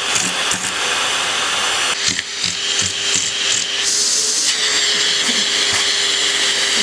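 Vacuum cleaner running steadily, its rush of air and whine changing about two seconds in and again past four seconds, with a few light knocks.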